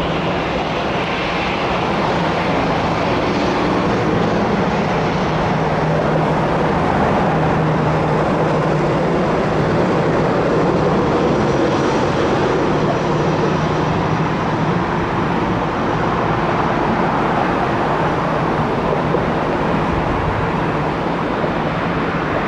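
Jet airliner's engines running steadily: a dense roar with a low drone and a faint high whine.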